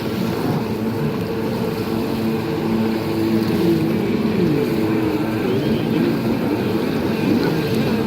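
Several racing jet skis' engines running at speed together, their overlapping pitches rising and falling as the riders work the throttles.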